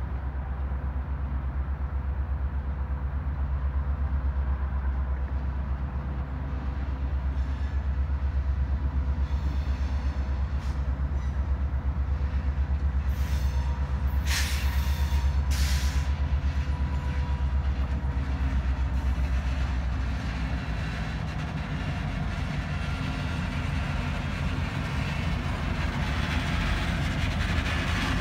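Canadian Pacific Holiday Train passing: a diesel locomotive's deep rumble as it approaches and goes by, then the steady clatter of boxcar wheels rolling past. A few short hissing bursts come about halfway through.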